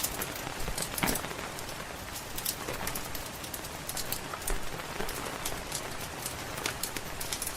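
Steady rain with frequent sharp crackles and pops from a wood fire in a fireplace.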